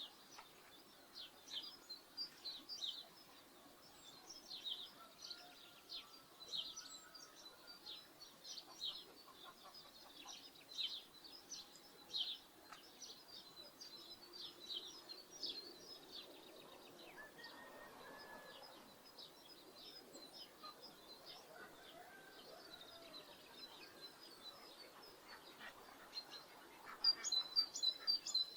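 Small birds chirping in short, repeated calls, with a quick flurry of chirps near the end, over a faint rural outdoor background.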